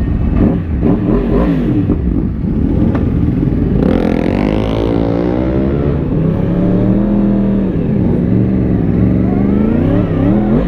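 Yamaha R1's crossplane inline-four engine revving as the bike pulls away and accelerates. Its pitch climbs about four seconds in, then drops and rises again several times.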